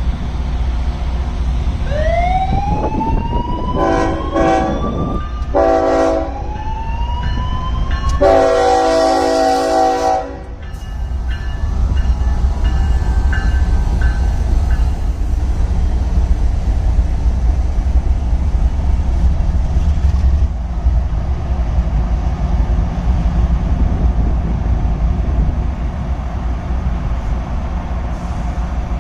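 Locomotive air horn sounding two short blasts and then a long one, after two rising whoops, over the steady low rumble of a passing train.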